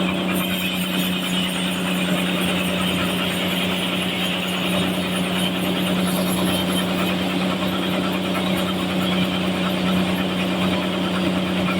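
Sawmill running steadily while sawing a trembesi log: a constant low hum under a steady hiss that does not let up.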